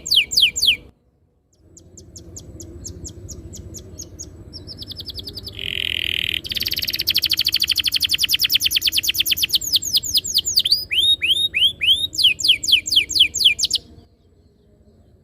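A canary singing in fast rolling trills of high, repeated notes, many sweeping downward, with a louder buzzy phrase about six seconds in. The song breaks off briefly about a second in and stops near the end.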